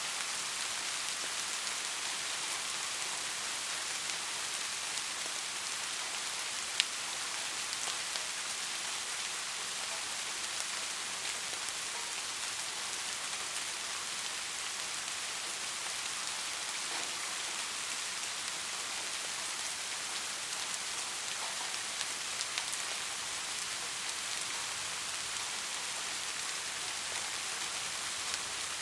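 Steady rain falling, an even hiss with scattered individual drops ticking on a surface; one sharper drop tick stands out about seven seconds in.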